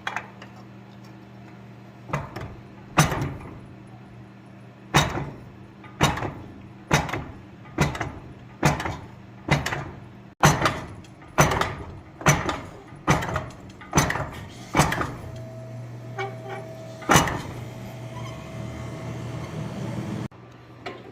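Hand hammer striking hot steel on an anvil, about sixteen blows roughly a second apart, knocking the corners off a forged piece, over a steady low hum.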